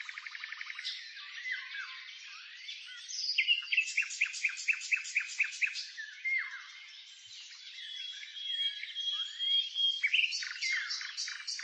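Several songbirds singing over one another: quick chirps, fast trills of repeated notes and short whistles, with a long steady whistled note a little past the middle.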